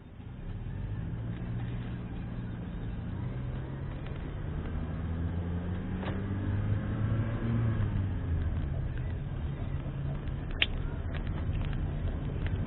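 Car engine running as the car picks up speed, its hum rising in pitch and easing back around the middle. A sharp click sounds near the end.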